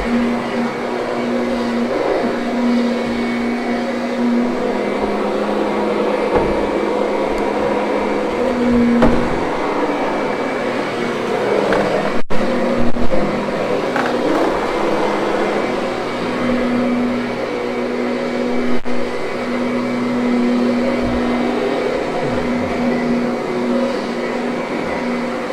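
Kirby upright vacuum running steadily as it is worked over a carpet, its motor hum holding one pitch that swells and fades slightly with the strokes. A few short louder knocks come about twelve seconds in.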